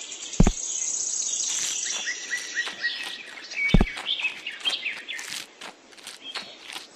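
Small birds chirping and trilling in quick, high calls. There are two short knocks, about half a second in and near four seconds in.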